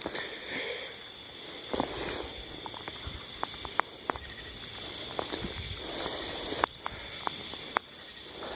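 Night insects, crickets by the sound of it, trilling steadily at a high pitch, with scattered sharp clicks over the top.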